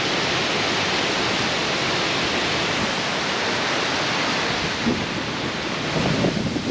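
Steady, even rushing roar of a waterfall, with some rustling starting near the end.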